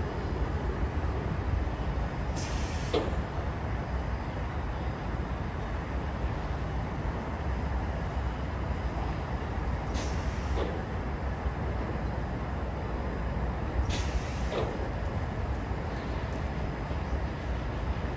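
Steady low outdoor rumble, broken three times by a short, sharp hiss like compressed air being released.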